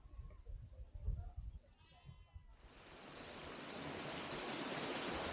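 A sheep bleats faintly once about two seconds in over a low rumble, then the rushing of a waterfall fades in and holds steady.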